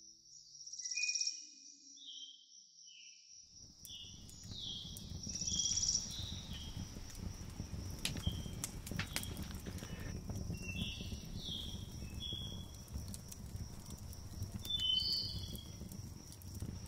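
Evening woods ambience: a steady high insect trill with short high bird-like chirps. From about three and a half seconds in, a low steady rush with scattered crackles and pops, fitting a wood stove fire burning.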